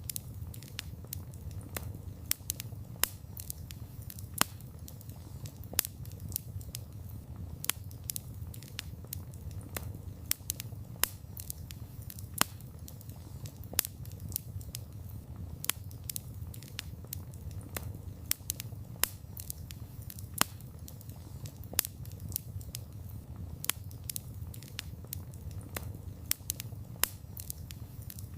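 Wood campfire crackling: irregular sharp pops and snaps of burning wood, several a second, over a steady low rumble of the flames.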